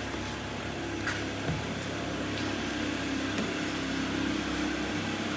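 Freshly rebuilt Mitsubishi 4A91 1.5-litre four-cylinder engine idling steadily and quietly, heard from outside the car.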